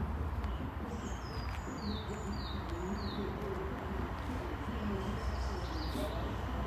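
Small birds singing, with a run of short falling chirps about a second in and scattered calls after, over a steady low rumble.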